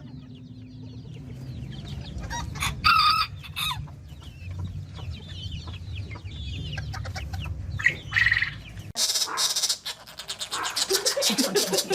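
Birds clucking and calling, with many short chirps and one louder call about three seconds in. About nine seconds in the sound changes abruptly to a rapid run of clicks and rustling noise.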